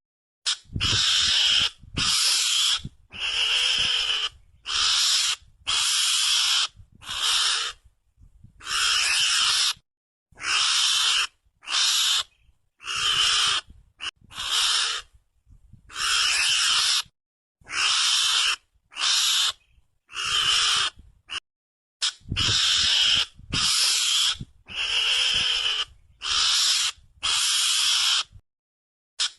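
Mongoose lure call, the kind played to draw mongooses in for hunting: about twenty short, harsh, hissy calls, each under a second, repeated roughly every second and a half with complete silence between them.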